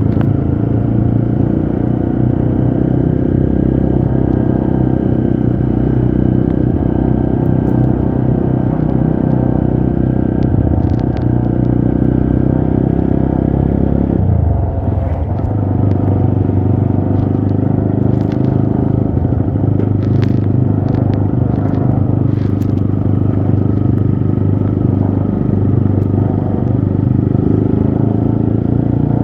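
Trail motorcycle engine running steadily under load, the revs dipping and picking up again about halfway through, with scattered light clicks and rattles over it.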